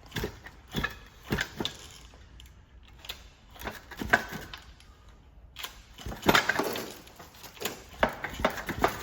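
Irregular clicks, knocks and light rattles of hands working on an old two-stroke outboard motor and its fuel line while fuel is primed through it, with a cluster of strikes a little past the middle.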